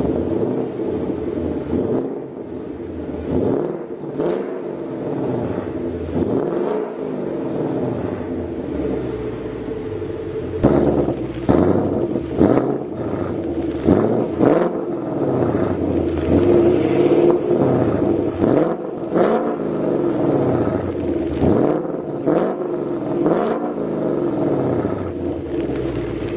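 Ford Mustang GT's 5.0 V8 revved again and again through its sound-up stock exhaust, each blip rising and falling in pitch. About ten seconds in, the revs turn louder and sharper and come in quicker succession.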